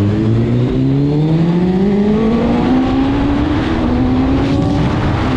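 Sportbike engine pulling away under throttle, its pitch climbing steadily with a gear change about a second in, then rising more slowly.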